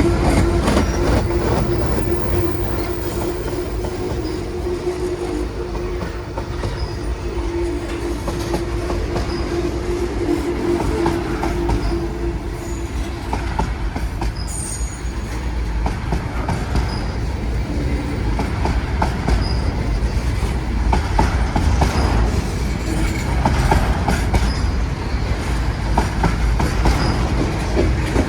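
Train rolling past, its wheels clattering over the rail joints under a heavy, steady low rumble. A steady wheel squeal runs through the first half and then drops away.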